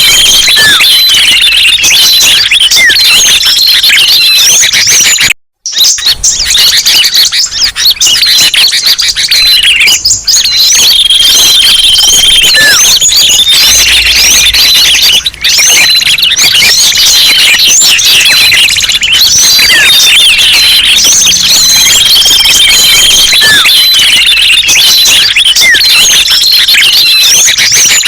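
Bird-lure recording: a dense, loud chorus of many small songbirds chirping and twittering over one another, with quick sweeping calls and a held whistle that recurs every ten seconds or so. It cuts out completely for a moment about five and a half seconds in, then carries on.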